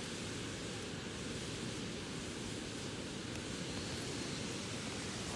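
Steady rushing outdoor noise with an occasional faint crackle from a burning wood bonfire.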